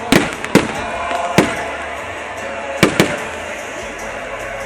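Fireworks bursting: about five sharp bangs at uneven gaps, two of them close together about three seconds in, each with a short echoing tail.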